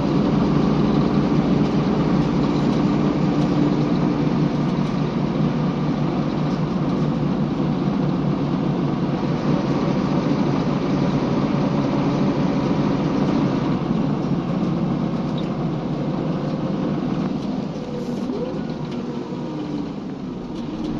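Scania L94UB city bus running along the road: steady engine and road noise that eases slightly in level over the last few seconds.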